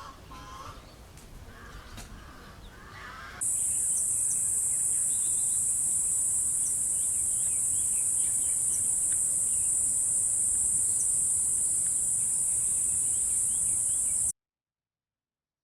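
Outdoor bird calls for the first few seconds, then a loud, steady, high-pitched insect drone with faint bird chirps over it, which cuts off suddenly near the end.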